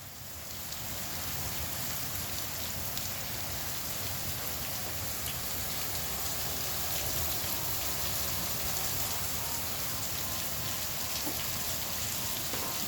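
Rain pouring down in a storm: a steady hiss with scattered drop ticks, swelling over the first second and then holding even.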